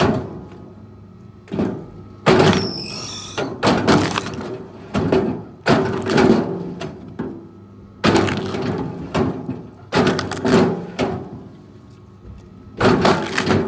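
Wood cracking and breaking under heavy machinery: about ten irregular crashes over a low steady machine hum, with a brief high squeal about two and a half seconds in.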